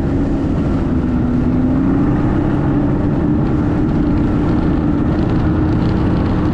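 Snowmobile engine running steadily while under way, its pitch dipping slightly about a second in and then rising again.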